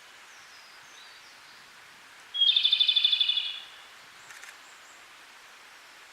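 Japanese robin singing one song phrase about two seconds in: a single high opening note followed by a fast trill of about a dozen notes lasting just over a second. Steady background hiss, with a few faint higher bird notes before the phrase.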